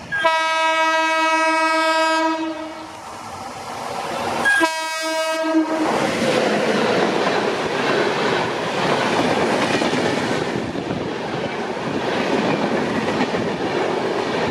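A WAP-7 electric locomotive sounds its horn twice: a steady blast of about two seconds, then a shorter one about two seconds later. After that its express coaches pass close by, with wheels clattering over the rail joints.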